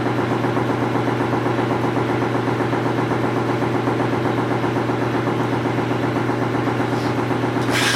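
A steady, unchanging engine-like hum, as of a motor running at a constant speed, with a few short clattering noises near the end.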